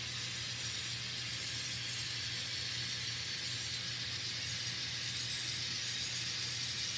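N scale model trains running steadily around a layout: an even rushing noise from wheels and motors on the track with a constant low hum underneath.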